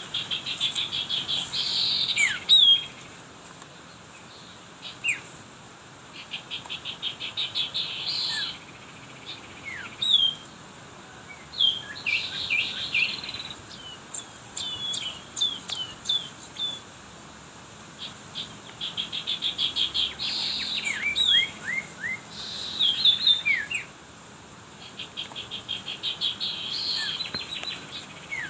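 Small songbird singing: a fast, buzzy trill of about two seconds, repeated roughly every five seconds, with short sharp down-slurred whistles between the trills.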